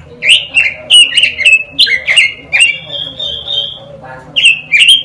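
A quế lâm songbird singing: a quick run of loud, sliding whistled notes, with a short held note in the middle, a brief pause about four seconds in, then the run picks up again.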